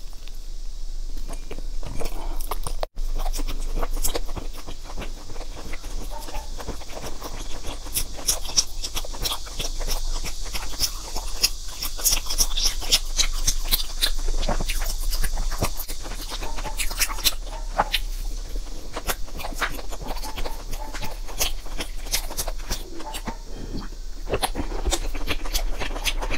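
Close-miked chewing of soft pastry, full of rapid sharp wet mouth clicks, thickest in the middle stretch.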